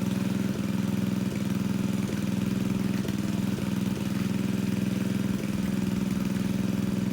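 Engine of a water pump running steadily at constant speed, pumping a fish pond dry.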